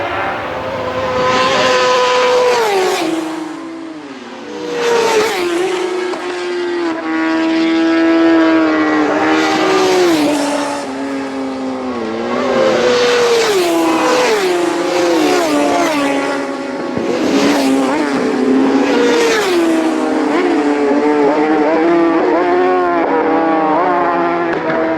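Racing motorcycles at full throttle on a public-road circuit. The engine note climbs and steps down with each gear change, and it swells loudly several times as machines pass.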